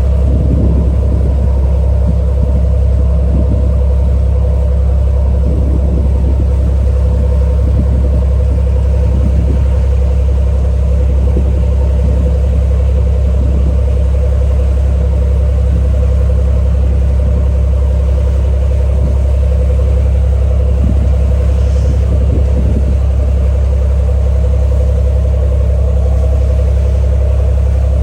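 A ferry's engine running steadily under way, a constant low drone with a fixed hum above it.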